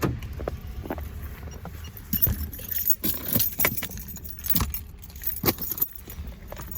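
Keys jangling, with a string of irregular sharp clicks, over a steady low rumble.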